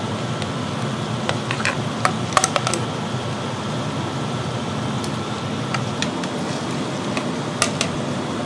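Steady whir of a ventilation fan, with a few light clicks and clinks about two seconds in and again near the end.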